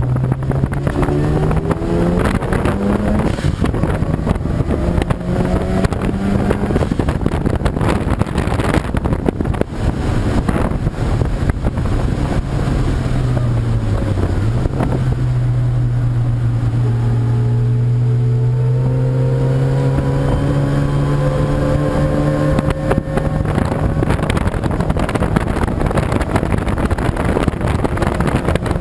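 Race car engine running hard, its note climbing and falling with throttle and gear changes. It dips sharply about halfway through, then climbs slowly again, with wind rushing over the microphone.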